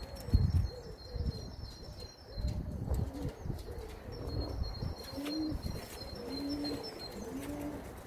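Homing pigeons cooing over and over in a loft, with a high, thin chirping in the background and a few low thumps in the first few seconds.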